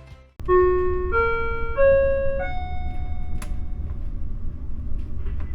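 Four-note rising chime from a ferry's public-address system signalling an onboard announcement. The first three notes last about half a second each, and the fourth is held and slowly fades. A steady low rumble runs underneath.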